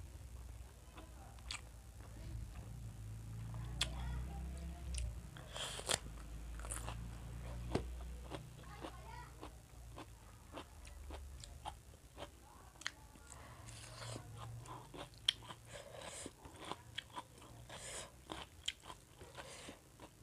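Close-miked chewing and biting of a person eating rice by hand, with many short wet mouth clicks and smacks throughout.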